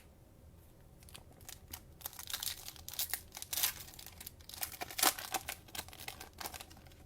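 Cellophane wrapper of a trading card pack crinkling as it is torn open, an irregular run of sharp crackles from about a second in.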